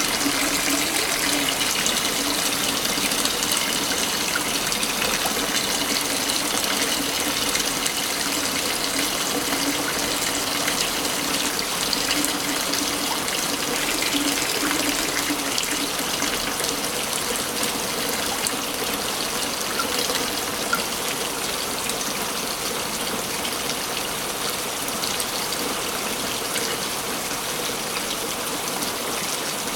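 Waterfall in a forest, water falling and splashing steadily.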